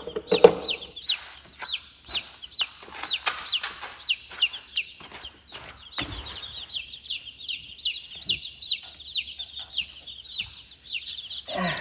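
A brooder full of Cornish cross baby chicks peeping continuously, many short high peeps that drop in pitch, several a second. A few sharp knocks and rustles come in the first half.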